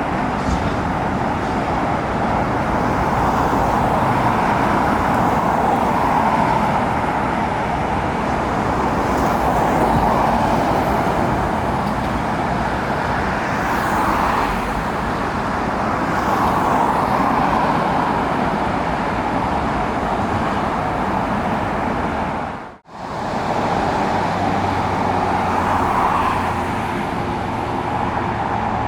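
Steady engine noise that swells and eases every few seconds. It cuts out abruptly for a moment about 23 seconds in.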